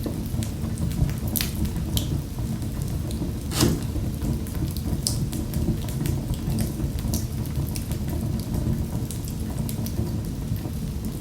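Wood fire burning in a fireplace: a steady low rumble of flames with frequent sharp crackles and pops, one louder pop about three and a half seconds in.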